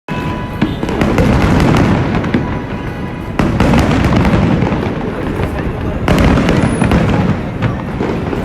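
Fireworks display: a dense barrage of booms and rumbling with many sharp crackling reports. It swells louder about a second in, again about three and a half seconds in, and most strongly around six seconds in.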